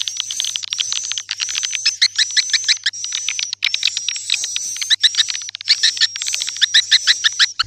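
Swiftlet calls: rapid trains of dry chirping clicks, many a second, with a thin high whistled tone held over them. The calls come in phrases about a second long, broken by brief gaps.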